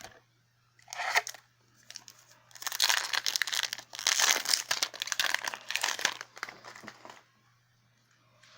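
Foil Yu-Gi-Oh! booster pack wrapper crinkling and being torn open: a short rustle about a second in, then several seconds of continuous crackling and tearing that stops about seven seconds in.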